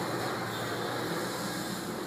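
Caterpillar 320 excavator running steadily, a continuous mechanical hum and hiss with no distinct knocks or changes.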